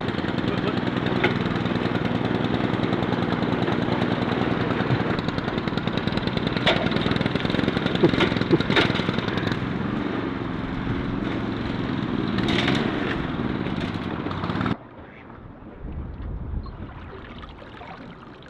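An engine running steadily, with a few sharp clicks over it, cutting off abruptly about fifteen seconds in.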